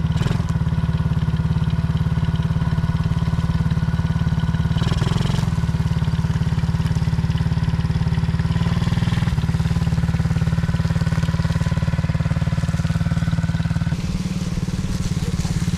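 Small 50cc four-wheeler (kids' ATV) engine running steadily under throttle, its pitch shifting a little as the rider varies the gas, then easing off near the end.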